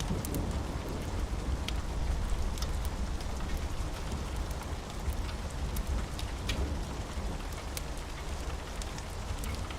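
Steady rain, with a low rumble of thunder underneath and scattered sharp crackles from a wood fire.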